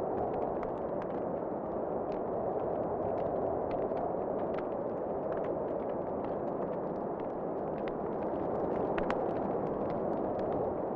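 Wood fire crackling, with scattered small pops over a steady rushing of wind.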